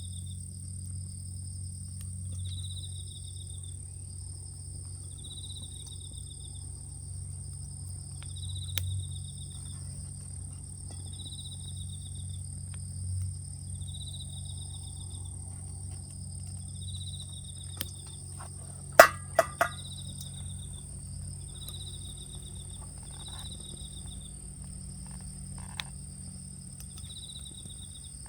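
Insects calling: a steady high-pitched trill with a short chirp repeating about every three seconds, over a low steady rumble. A few sharp clicks come about two-thirds of the way through.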